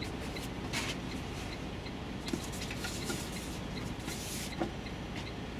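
Drone packaging and batteries being handled: short bursts of rustling and a few light clicks, over a steady low hum.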